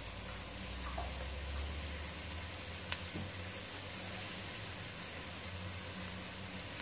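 Oil sizzling steadily in a pot where carrots and spices are frying with tomato paste. A low hum runs underneath, and there is a single light click about three seconds in.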